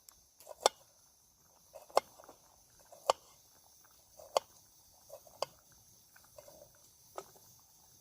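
Campfire wood crackling, with sharp single pops about once a second over a faint steady hiss.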